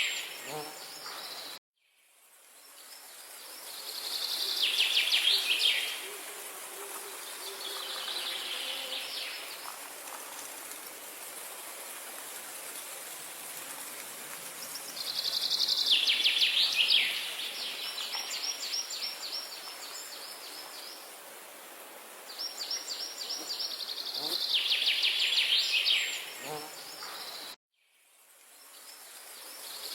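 A songbird sings several phrases, each a fast run of repeated notes, over a steady high hiss. The sound cuts out to silence for a moment twice, near the start and near the end.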